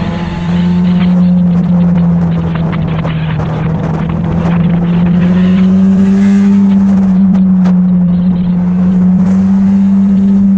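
Motorcycle engine running steadily while riding, its drone edging up in pitch about halfway through, over rushing wind noise.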